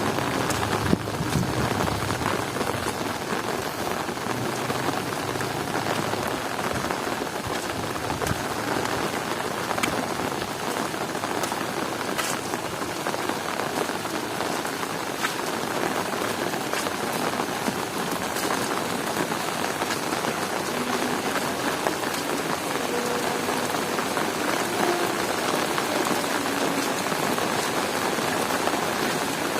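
Heavy rain falling steadily: a dense, even hiss with scattered drop patter. A low rumble dies away in the first second.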